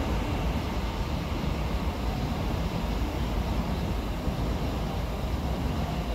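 Steady low rumble of an electric commuter train pulling away along the tracks.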